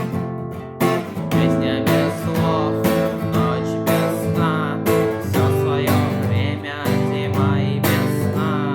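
Acoustic guitar strummed in a steady rhythm, chords ringing between strokes about twice a second.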